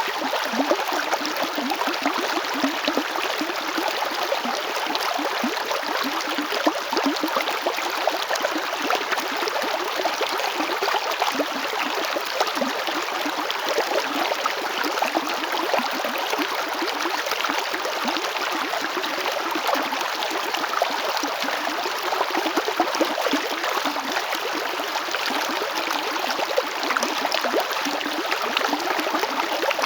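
River water flowing steadily over rocks, a continuous rushing with many small splashes and gurgles.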